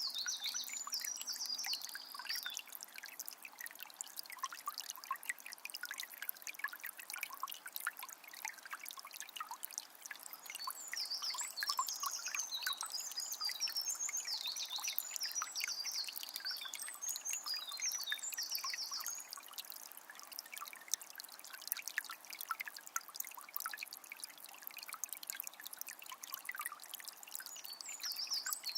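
A small spring trickling and splashing steadily, with many small drips and gurgles. Birds sing high chirping phrases over it near the start, again for several seconds through the middle, and near the end.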